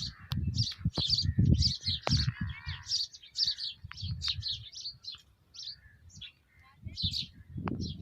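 Small birds chirping: a rapid string of short, high calls, several a second, thinning out for a couple of seconds in the middle and picking up again near the end, over intermittent low rumbling.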